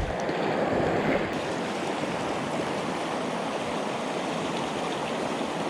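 Mountain river rushing steadily over rocks, a constant flowing-water noise.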